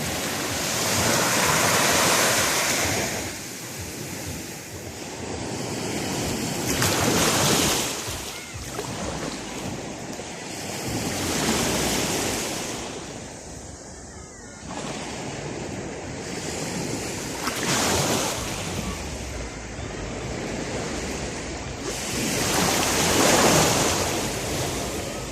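Ocean waves breaking on a beach, the rush of surf swelling and falling back about every five seconds.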